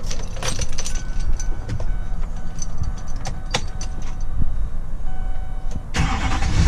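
Ignition of a Duramax LMM 6.6-litre V8 turbodiesel pickup being switched on: a few clicks and faint steady electronic dash tones. About six seconds in, the engine starts with a sudden loud rumble that keeps running.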